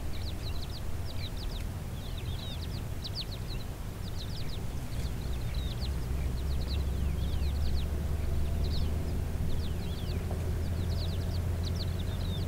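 Many small birds chirping, a dense run of quick, short downward-sliding calls, over a steady low rumble that grows a little stronger about halfway through.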